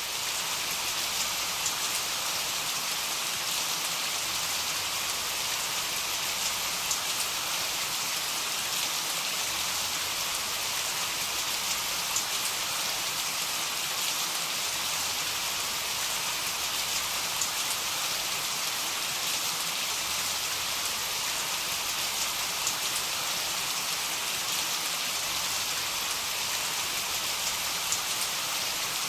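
Heavy rain falling: a steady, even hiss with scattered drop ticks and no thunder.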